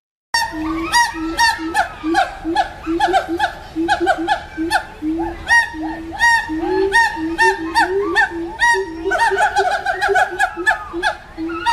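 A loud, busy chorus of animal calls: many short, rapid calls overlapping one another over a repeated short low note, going on without a break after a sudden start.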